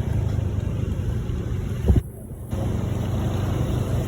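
Motorbike engine running under riding, with wind rumble on the microphone. A sharp knock comes just before the middle, and the sound then briefly drops out for about half a second.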